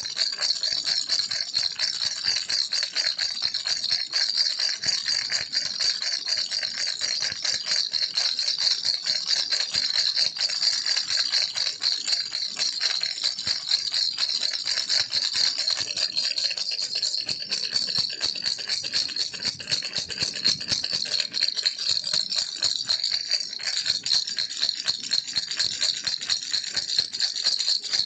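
A baby rattle shaken rapidly and without pause, a dense, steady rattling.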